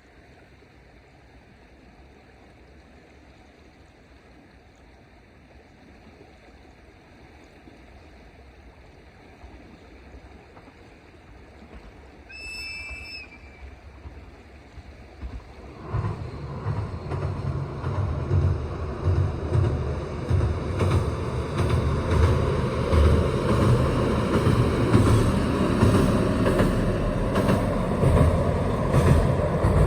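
KiHa 40 diesel railcar approaching and crossing a railway bridge: a faint distant rumble at first, one short horn blast about halfway through, then a loud low rumble with repeated wheel clacks, growing louder, from just past the middle.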